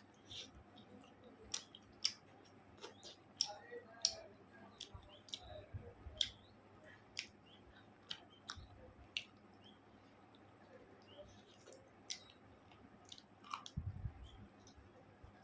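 Close-up eating sounds of a person chewing chicken curry and rice: irregular wet clicks and smacks of the mouth, spaced a fraction of a second to a second apart, with a low thump near the end.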